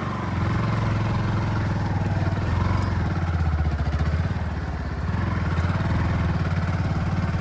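Motorcycle engine running under way, its note swelling up at the start and holding steady with a slight dip partway through.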